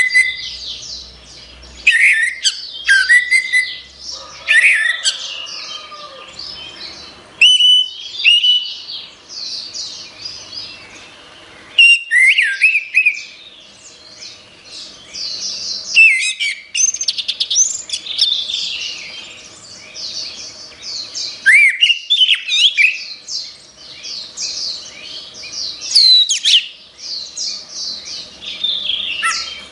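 Orange-headed thrush singing a loud, rapid, varied song of sweeping whistled notes in phrases separated by brief pauses.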